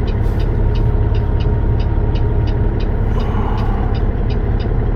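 Peterbilt 389 semi truck's diesel engine running steadily with a regular light ticking about three to four times a second, as the truck backs under a loaded trailer to pick it up.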